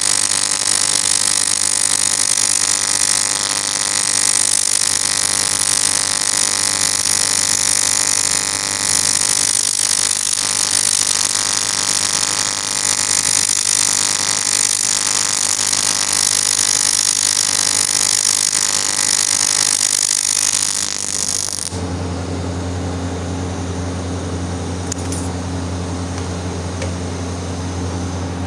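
AC TIG welding arc on aluminium, a loud steady buzzing hiss. It cuts off abruptly about three-quarters of the way through, leaving a steady low hum.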